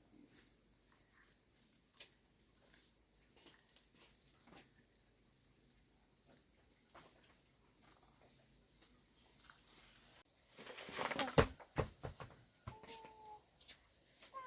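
Insects chirring steadily in a high, even drone, with a short burst of clatter and sharp knocks about eleven seconds in.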